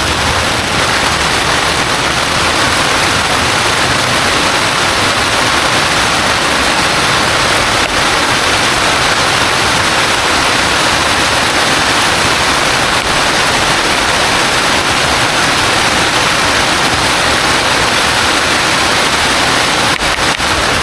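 Heavy rain pouring steadily, a dense even hiss without let-up.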